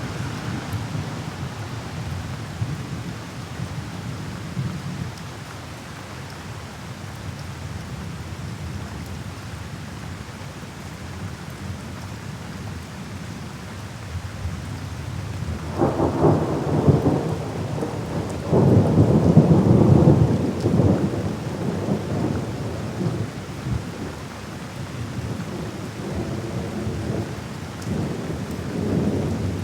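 Thunderstorm: steady rain with a low rumble of thunder, then louder rolls of thunder a little past halfway, the loudest about two-thirds through, and another building near the end.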